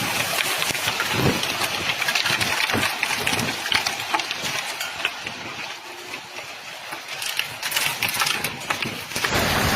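Hailstones pelting down on hard surfaces: a dense, irregular clatter of impacts over a steady rush of storm noise. Near the end it turns into a louder, fuller rush.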